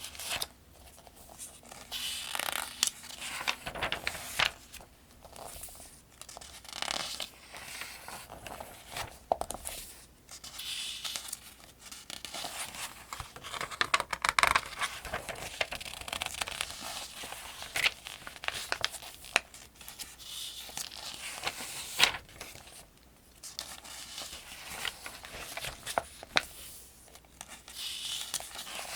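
Paper pages of a magazine-style almanac being turned one after another, each turn a soft swish and rustle with crisp ticks as the page flips and settles, at a steady, unhurried pace.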